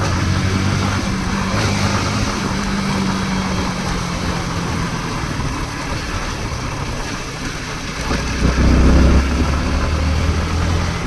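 An engine running steadily over a constant rushing noise. Its low hum fades about four seconds in and comes back louder near the end.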